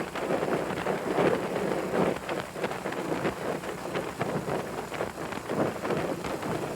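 Wind buffeting the microphone of a moving motorcycle, an uneven rushing rumble, with the engine running faintly and steadily underneath.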